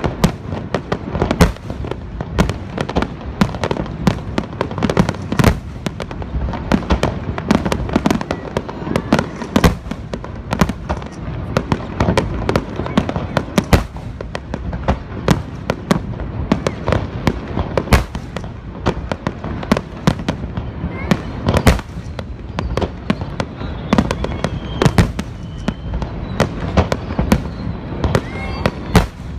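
Fireworks display: a dense barrage of aerial shells bursting, with rapid overlapping bangs, several a second, over a continuous low rumble.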